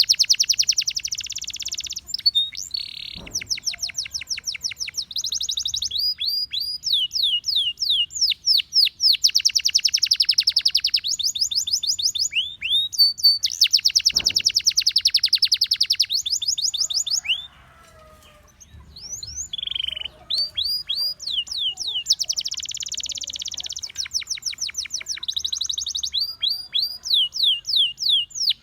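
Gloster canary singing: fast trills of rapidly repeated notes alternating with runs of separate sweeping chirps, the song breaking off briefly a little past halfway.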